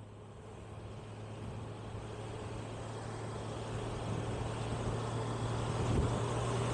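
A vehicle running steadily, with a low constant engine tone under road and wind noise, growing gradually louder.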